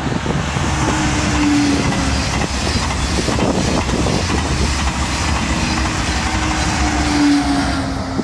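A train passing close by, its wheels clacking over the rail joints, with a low steady tone that comes in twice: about a second in and again near the end.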